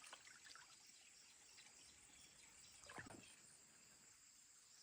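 Near silence: faint outdoor ambience with a thin, steady high-pitched hum and one brief soft sound about three seconds in.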